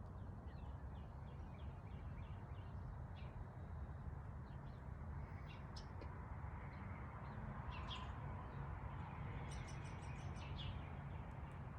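Wild songbirds chirping and singing in scattered short calls, with a quick run of repeated high notes near the end, over a steady low background rumble.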